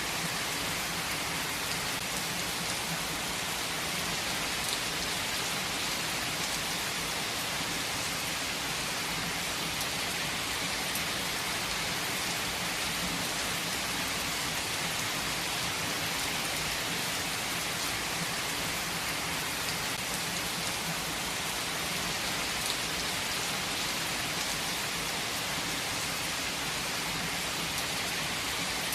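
Heavy rain falling steadily, an even hiss of many drops on surfaces, with faint scattered drip ticks.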